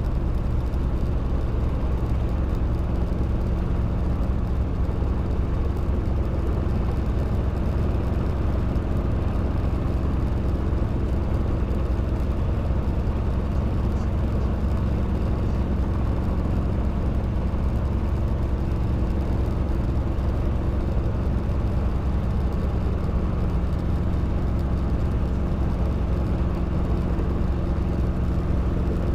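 Robinson R22 helicopter's four-cylinder Lycoming piston engine and rotor running steadily, a constant low drone.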